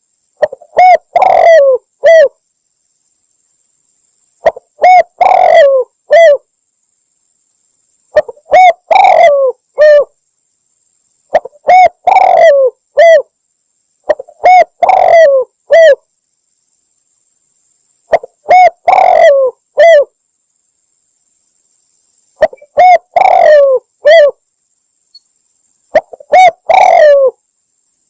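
Spotted dove (tekukur) cooing in repeated phrases of several coos each. Each phrase lasts about two seconds and comes every three to four seconds, with silence between. This is a tekukur lure call used to draw doves in.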